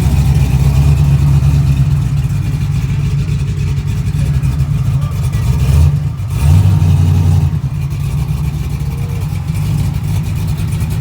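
Truck engine running loud with a deep, steady drone, dipping briefly about six seconds in before picking up again.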